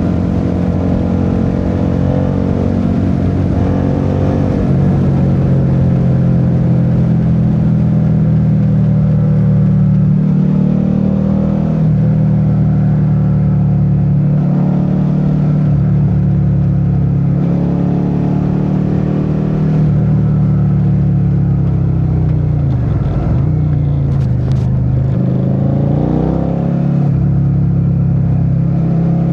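Suzuki SV650's 90-degree V-twin engine running steadily while riding, its pitch dipping a little over twenty seconds in and then climbing again as it picks up revs.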